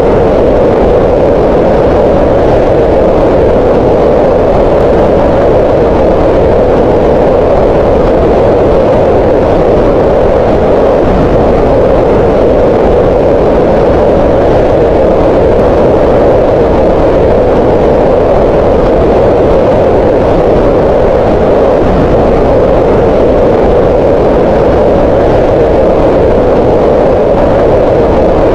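Green noise: a steady, loud hiss with its energy bunched around 500 Hz, even and unbroken throughout.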